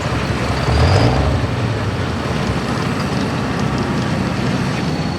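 Diesel 4x4 pulling truck's engine running loud, swelling briefly about a second in, with a faint high whistle over it.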